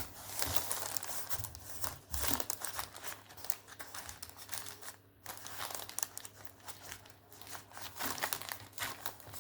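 Irregular crinkling and rustling from hands handling something close to the microphone, coming in uneven bursts with a brief lull about five seconds in.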